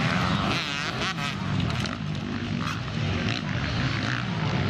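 Motocross motorcycle engines running and revving, with a rising-and-falling engine note about a second in.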